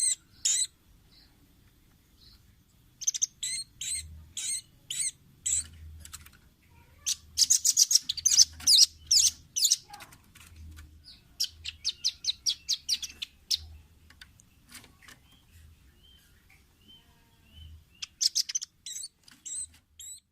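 Velvet-fronted nuthatch calling in bursts of sharp, high chips that run together into fast rattling trills, with short pauses between the bursts.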